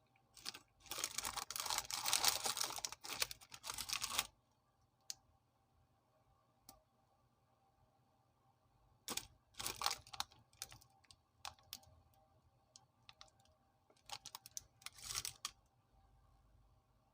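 Biscuit packet wrapper crinkling and rustling as it is handled, in three bouts: a long one at the start, one about halfway through and a shorter one near the end, with scattered clicks between.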